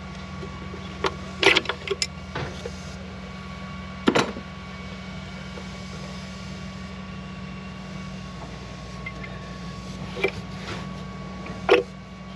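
Sharp metal clicks and knocks as a diesel common-rail fuel injector is pried and worked loose from its bore in the cylinder head, the loudest about four seconds in and a few more near the end, over a steady low hum.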